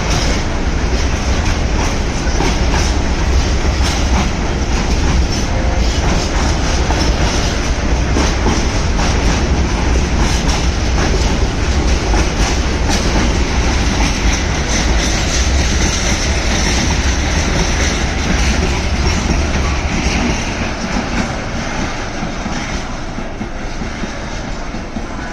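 Freight train of tank wagons rolling past, its wheels clattering over the rail joints with a deep rumble underneath. The rumble fades and the sound eases about 20 seconds in.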